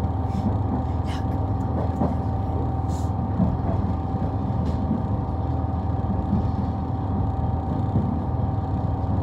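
Running noise heard inside a moving train carriage: a steady low rumble from the wheels and track, with a steady hum held at one pitch over it.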